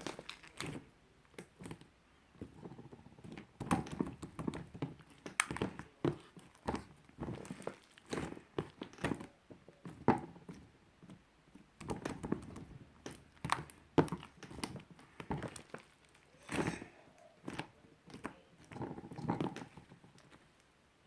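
Lavender marbled slime being squished and pressed by hand, giving irregular short pops and clicks, some louder than others.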